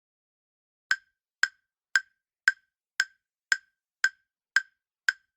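Quiz countdown-timer sound effect: short, sharp ticks about twice a second, starting about a second in.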